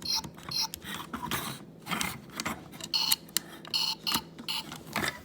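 A plastic toy steamroller being handled and its buttons pressed, giving a run of irregular clicks and rattles with short, broken snatches of electronic sound.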